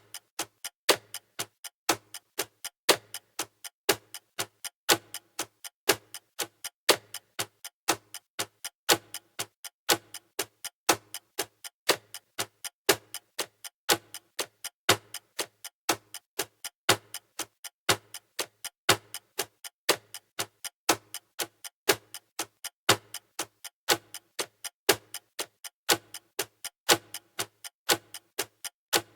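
Clock-style ticking of a countdown timer: a steady, even run of sharp ticks, with a louder tick about every two seconds.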